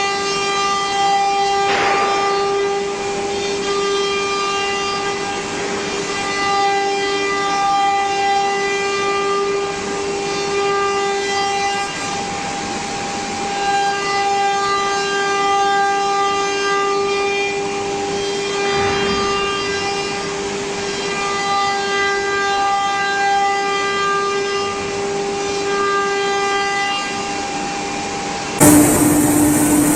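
CNC router spindle running with a steady high whine and overtones while machining. Near the end the sound gets suddenly louder and the whine drops to a lower pitch.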